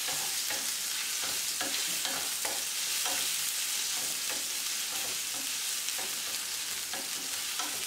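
Paneer cubes frying in hot oil in a nonstick pan: a steady sizzle, with repeated soft scrapes and taps of a wooden spatula as they are stirred and turned.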